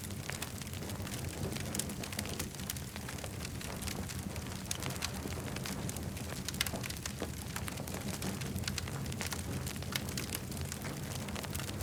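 Campfire crackling: frequent sharp pops and snaps of burning wood over a steady low rumble.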